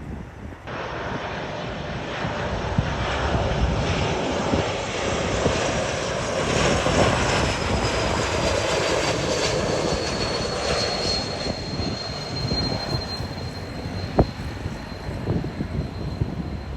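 Jet airliner passing close: a steady engine roar with a high whine that falls in pitch partway through, then holds. A single sharp click about 14 seconds in.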